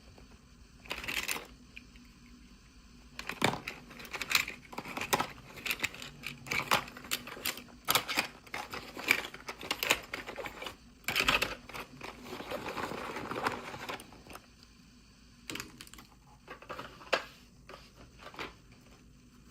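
Packaging and small plastic toy pieces being handled during an unboxing: an irregular run of light clicks and taps with crinkling, and a longer rustle about two-thirds of the way through.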